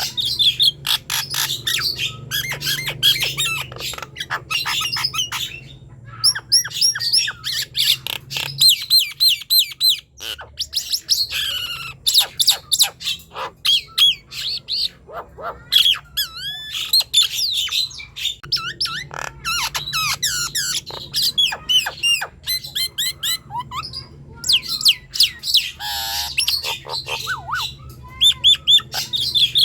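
Nias hill myna singing a loud, continuous song of varied whistles, rising and falling glides and sharp clicks, with only brief pauses, over a faint steady low hum.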